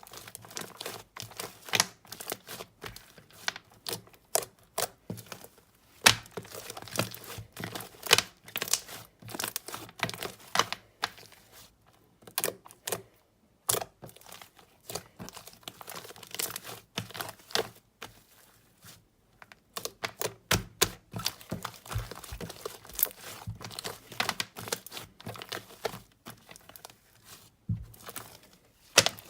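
Slime being squeezed, pressed and stretched by hand, giving a dense run of irregular sticky clicks, pops and crackles, with short pauses now and then.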